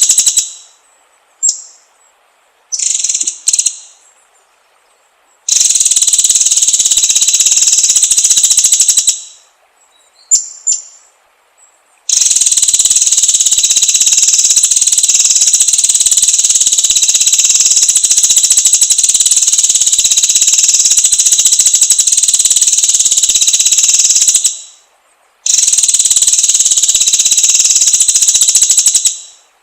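An animal's high, steady buzzing call in three long spells of several seconds each; each spell starts abruptly and fades out. A few short chirps come in the gaps between the spells.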